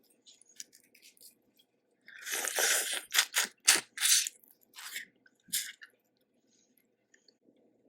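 Close-up eating of a boiled crawfish: a run of sharp cracks and crunches of shell with chewing, loudest in the middle, after a few faint clicks, then quiet.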